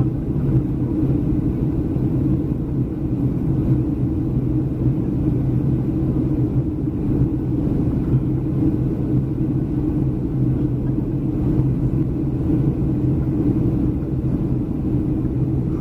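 Steady low rumble of a Boeing 737-300's passenger cabin in flight: engine and airflow noise, with a constant hum underneath.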